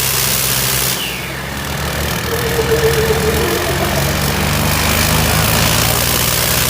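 Diesel tractor engine running. Its note dips about a second in, then rises and holds at a higher, louder pitch.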